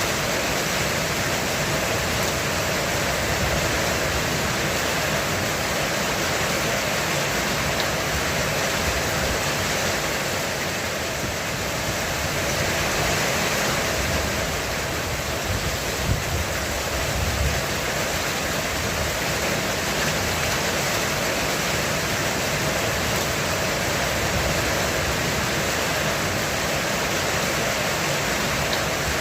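Heavy rain pounding steadily on a roof, a dense even hiss. A couple of brief low knocks come just past halfway.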